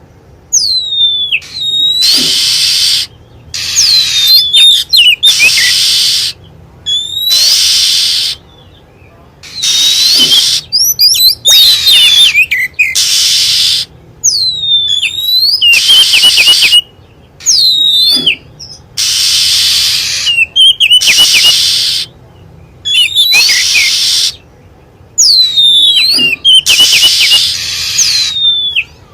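Recorded song of an Oriental magpie-robin played as a bird-lure track: loud whistled phrases with rising and falling glides, in clipped blocks that repeat the same sequence about every eight seconds.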